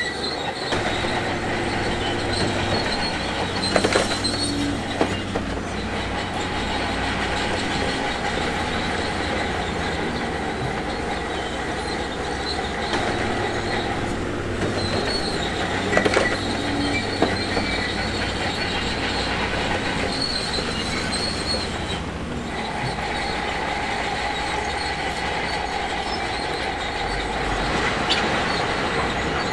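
Shantui DH17C2 crawler bulldozer working, its diesel engine running steadily, with a high squeal from the steel tracks that comes and goes as it moves. A few sharp clanks stand out, about a quarter of the way in, around the middle and near the end.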